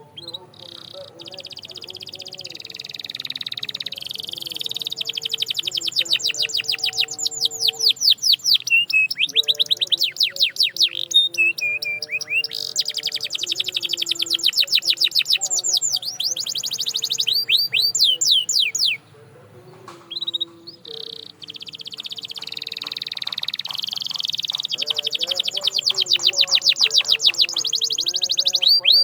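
Domestic canary singing: long, rapid trills of repeated sharp chirp notes, each run lasting several seconds, with a brief pause about two-thirds of the way through. Faint low melodic tones run underneath.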